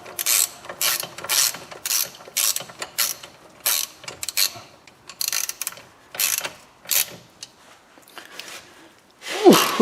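Ratchet wrench clicking in repeated strokes, about two a second, as the bolts holding a Chevrolet Cruze front wheel bearing hub are run down tight. The strokes fade after about seven seconds. Near the end comes a short, loud squeak that falls in pitch.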